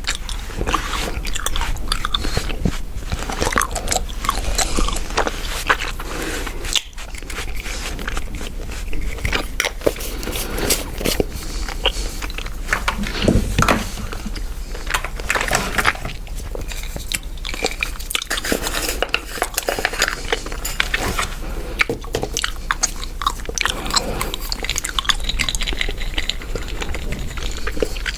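Chewing gum being chewed, with many quick, irregular wet clicks and smacks.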